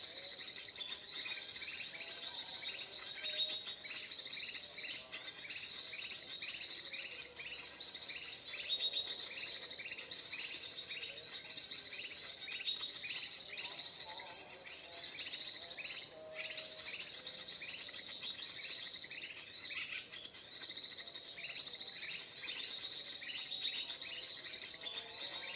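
Recorded bird-call lure played continuously on a loop: dense, fast chirping with the same phrase recurring about every second and a half. It is used to draw in black-crested bulbuls (kutilang emas) for trapping.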